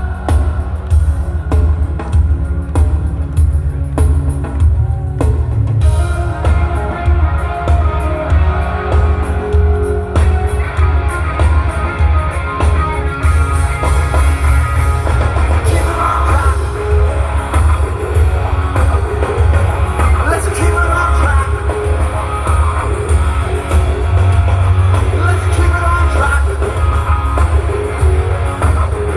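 Live rock band playing loud with drums, electric guitars and singing, heard through a fan's recording in the audience; the music fills out about six seconds in and again around thirteen seconds.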